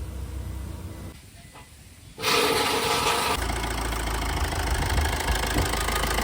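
Maruti Swift engine cranked by the starter and catching about two seconds in, then settling into a steady idle. It is running with a newly fitted timing chain, which sounds normal.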